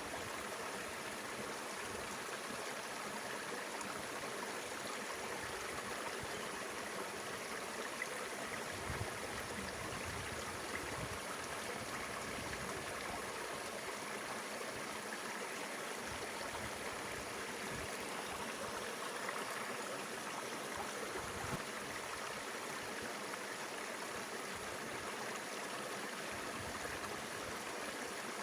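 Mountain river water rushing and gurgling in a steady flow.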